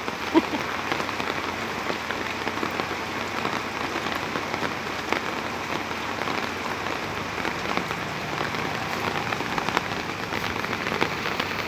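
Heavy rain falling steadily on a flooded street, an even hiss with no let-up.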